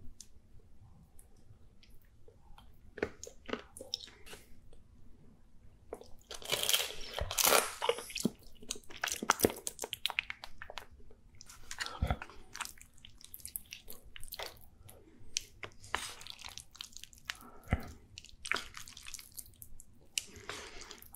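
A person eating cheese-sauced pan-fried dumplings and udon noodles: wet chewing and biting, with mouth clicks that come in irregular bursts, the loudest a few seconds in.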